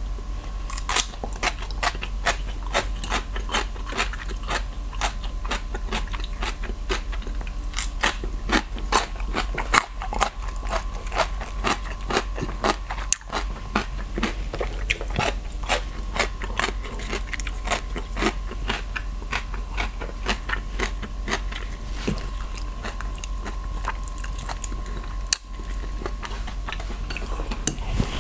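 Close-miked chewing of crunchy food, with many irregular wet crunches and mouth clicks throughout.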